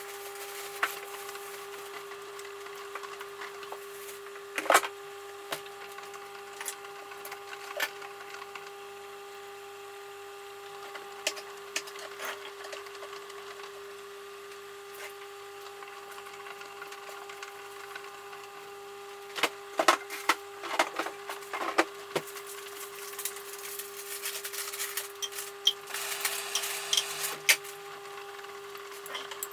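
Samsung 9 kg washing machine running its cotton cycle: a steady hum with irregular clicks and clattering knocks, in a thick cluster about two-thirds of the way through and again near the end.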